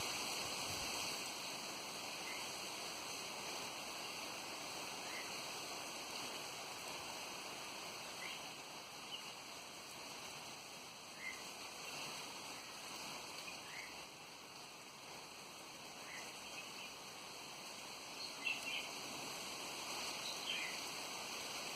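Small birds chirping in short, scattered calls over a steady rush of wind, with a brief cluster of louder chirps near the end.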